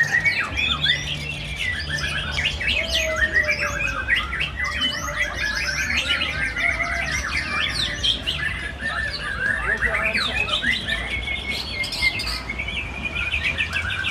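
White-rumped shamas singing in a continuous stream of rapid, overlapping chirps, trills and whistled phrases.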